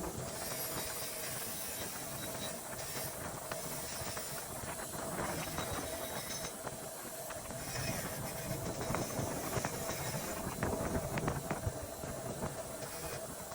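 Water spraying: a steady, even hiss with a faint steady tone running underneath.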